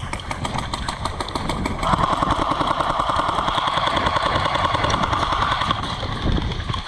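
Airsoft electric guns firing full-auto covering fire: a continuous rapid rattle of shots with the mechanical whir of the guns cycling, at its heaviest from about two seconds in to near the end.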